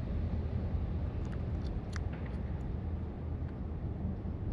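Steady low rumble of wind buffeting the camera microphone on open water, with a few faint clicks about one to two seconds in.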